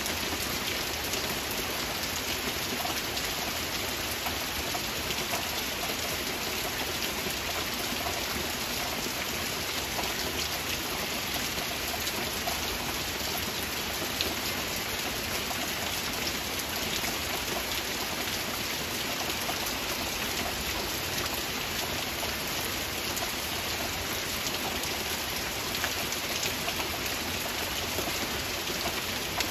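Heavy rain falling steadily: a dense, even hiss of countless drops, with fine drop ticks scattered through it.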